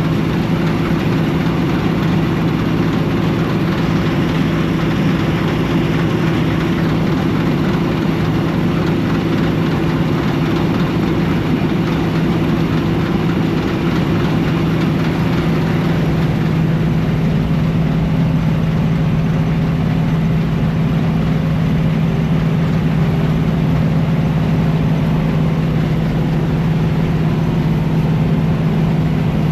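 Combine harvester's diesel engine running steadily at constant speed, with a strong low hum.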